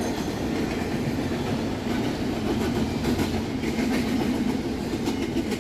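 Freight train cars rolling past, a steady rumble of wheels on rail with faint clickety-clack over the rail joints.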